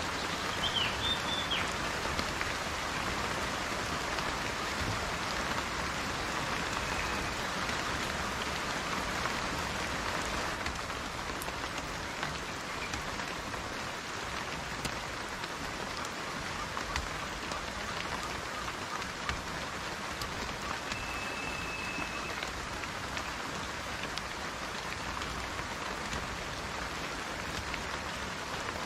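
Steady rain falling, an even hiss of drops, with a few brief high whistle-like notes about a second in and again about two-thirds of the way through.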